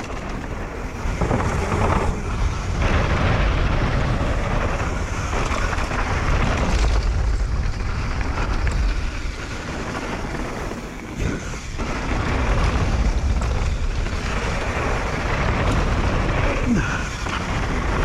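Wind buffeting the microphone and mountain bike tyres rumbling over a dirt trail at speed during a descent: a loud, uneven low rush that surges and dips.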